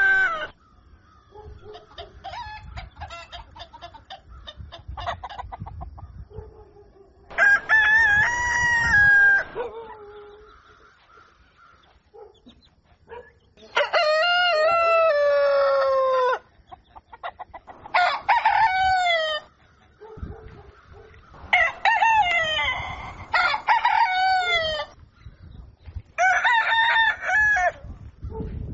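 Roosters crowing repeatedly: about six long cock-a-doodle-doo crows, each around two seconds and dropping in pitch at its end, starting about seven seconds in. Before that, chickens cluck in short rapid notes.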